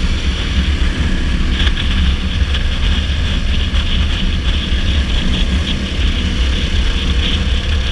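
Dirt bike engine running steadily at road speed, with heavy wind noise.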